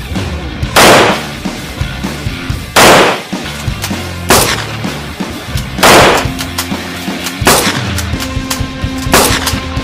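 Background music with six loud gunshot-like bangs, one about every one and a half to two seconds, each with a short fading tail.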